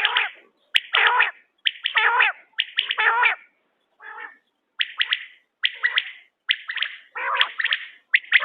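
Quail calling over and over in short sharp calls, about one a second, with a fainter call about four seconds in.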